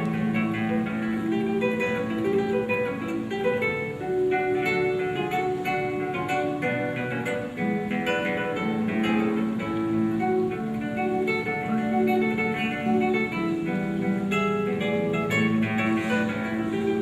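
Acoustic guitar playing an instrumental piece, a steady flow of plucked melody notes over ringing bass notes.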